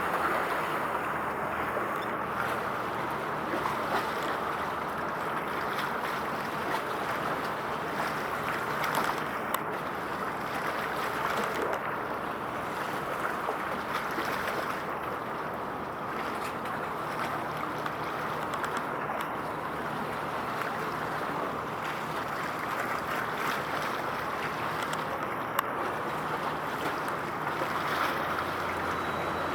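Steady outdoor noise of wind and water, with a faint low hum underneath.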